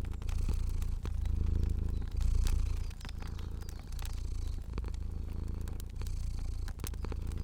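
A domestic cat purring steadily, the low purr swelling and dipping about once a second with its breathing, over the scattered pops of a crackling fire.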